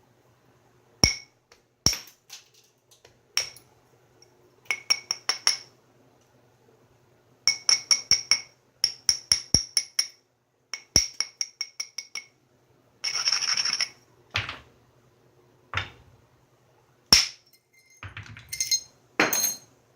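Flintknapping: an antler billet strikes a stone biface. There are single sharp strikes with a glassy ring, near the start and again near the end, and between them runs of quick light taps. About 13 seconds in there is a second of gritty scraping on the stone edge.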